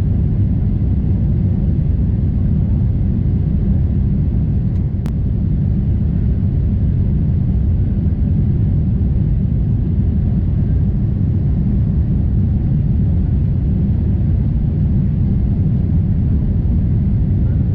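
Steady low rumble of a Boeing 747-8's engines and airflow heard inside the passenger cabin, with a single light click about five seconds in.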